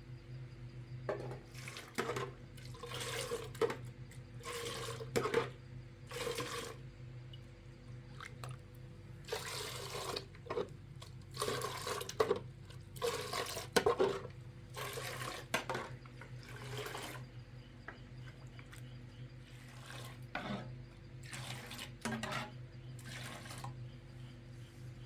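Water splashing in short irregular bursts, over a steady low hum.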